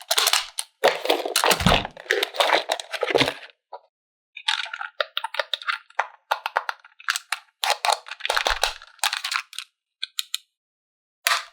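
Plastic toy packaging and parts being handled: irregular bursts of crinkling, crackling and clicking, with short pauses between.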